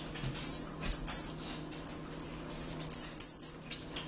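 Close-up eating sounds: a person chewing and biting crunchy sweet potato fries, a string of short sharp clicks and smacks.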